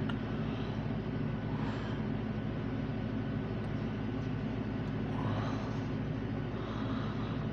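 Steady low mechanical hum with an even drone, unchanged throughout.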